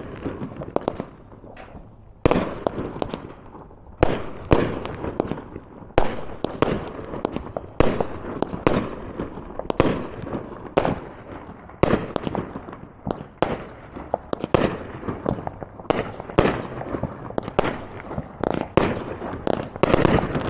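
Consumer fireworks going off in quick succession: loud bangs about every two seconds with many smaller cracks and crackling between them.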